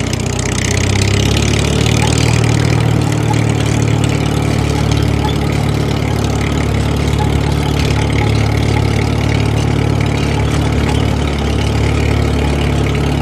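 Engine of a DIY mini tractor running steadily at idle, a low, even drone.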